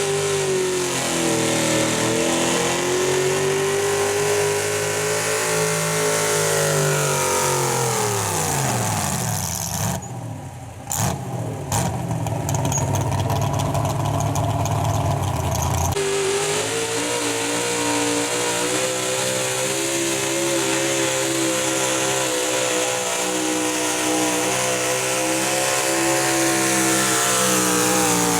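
Super Stock two-wheel-drive pulling truck engine running at high revs under load, its pitch wavering. About a third of the way through, the revs drop away and the sound goes quieter for several seconds. Then a truck engine cuts back in abruptly at high revs, holds steady and climbs slightly near the end.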